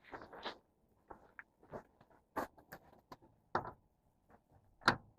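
Scattered clicks and knocks of hand tools against the truck engine while working on an idler pulley, with one louder knock near the end.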